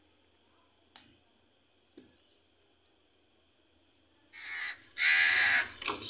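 A bird gives two harsh calls, about four and five seconds in, the second louder and longer. Before them it is near quiet, with only a couple of soft clicks.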